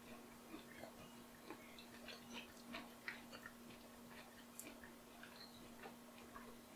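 Faint chewing of a mouthful of crispy roasted potato topping: soft, irregular little clicks and crunches, over a steady low hum.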